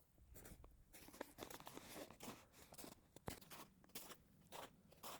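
Footsteps crunching through snow, a faint uneven run of steps about two to three a second, with one sharp click a little past halfway.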